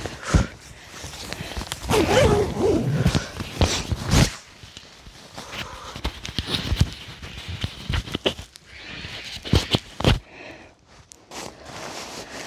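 Footsteps on the forest floor with clothing and gear rustling, in irregular clicks and scuffs that are busiest about two to four seconds in.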